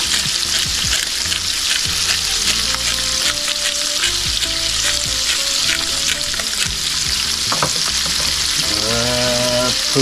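Sliced kielbasa and bacon sizzling steadily in bacon grease in an electric skillet, with frequent small crackling pops.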